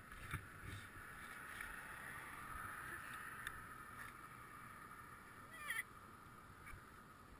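Steady rushing noise of riding a bicycle, wind and tyre hiss, with a few faint clicks and a brief squeak about three-quarters of the way through.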